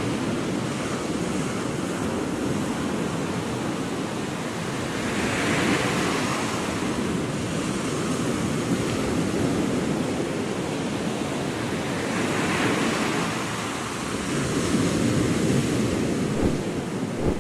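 Small Gulf of Mexico waves washing up on a sandy beach, the surf swelling every six or seven seconds over a steady hiss of water. Wind buffets the microphone underneath.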